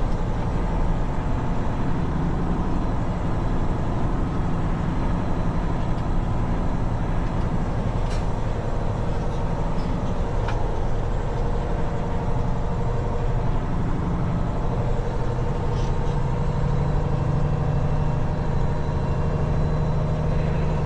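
Heavy-haul semi truck's diesel engine running steadily, heard from inside the cab, with its low hum getting a little stronger near the end. A few faint clicks come through.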